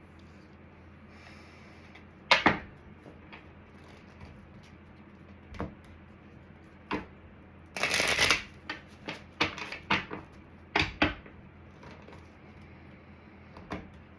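Tarot cards being shuffled and handled in a series of short riffles and snaps, with the longest run about eight seconds in.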